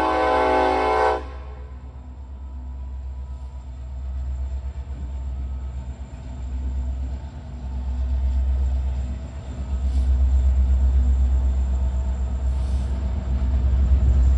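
Diesel freight locomotive horn sounding a chord that cuts off about a second in, followed by the deep, steady rumble of the train rolling past, swelling and easing.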